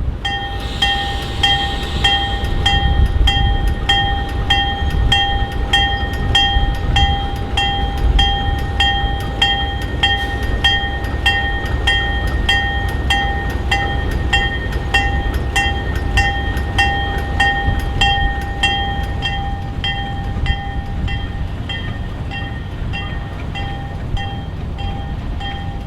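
A bell ringing steadily about twice a second over the low rumble of a passing diesel train.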